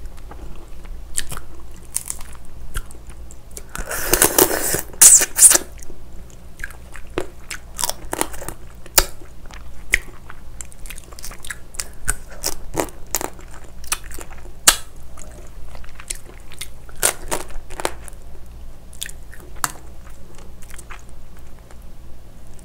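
Close-miked chewing and biting of yangnyeom-gejang, raw crab in spicy red marinade, with many short crunches and clicks of the crab shell. A louder, longer noisy stretch comes about four to five and a half seconds in.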